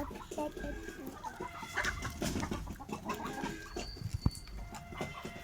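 Fowl clucking in a run of short, repeated calls, with a single sharp click about four seconds in.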